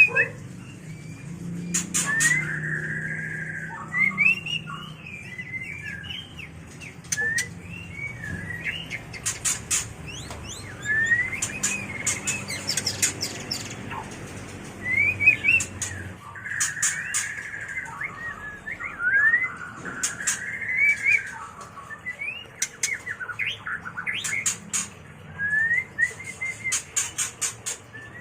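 White-rumped shama (murai batu) singing its breeding song: phrases of quick rising whistles mixed with rapid sharp chips, repeated every few seconds with short pauses between.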